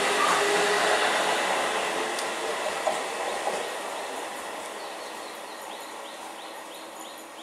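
An ICF-built electric multiple unit local train runs past on the track, its rushing noise fading steadily as it moves away. Two sharp clacks from the wheels come midway. Near the end a short high chirp repeats about twice a second.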